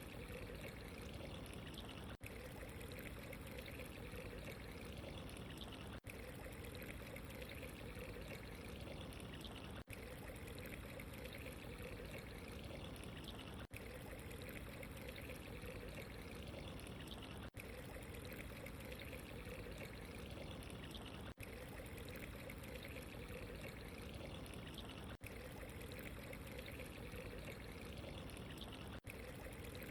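Steady running, trickling water ambience, interrupted by brief dropouts about every four seconds.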